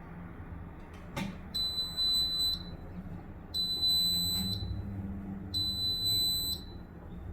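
Washing machine sounding three long, high beeps, each about a second long and two seconds apart, over a low hum, after a sharp click about a second in. This is the typical end-of-cycle signal.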